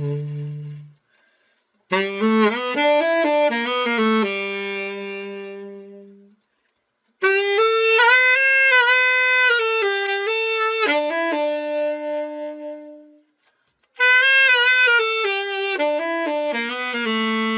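Selmer Mark VI tenor saxophone played solo after a full overhaul, test-playing the repaired horn. It plays three short phrases, each a quick run of notes ending on a long held note, with silent gaps between them.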